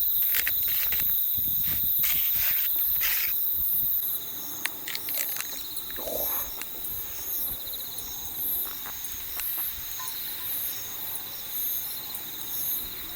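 Insects chirping: a steady high trill runs throughout, with a second call pulsing about once a second. Over the first four seconds there is a louder hiss with scattered clicks, and it stops abruptly about four seconds in.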